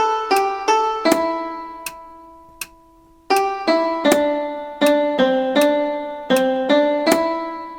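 Melody of a song played one note at a time in a piano-like keyboard tone, each note struck and then fading, about three notes a second. About a second in one note is held for roughly two seconds before the notes resume.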